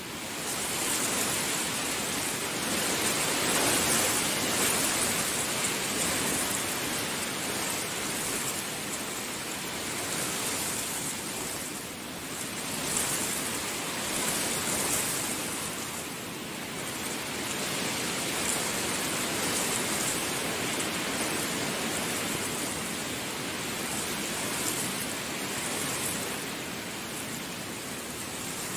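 Heavy rain falling steadily, a dense hiss that swells and eases every few seconds.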